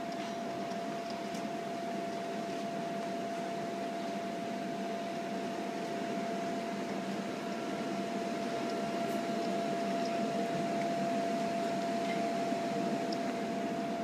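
Steady mechanical hum with one constant mid-pitched tone over an even hiss, and a few faint ticks.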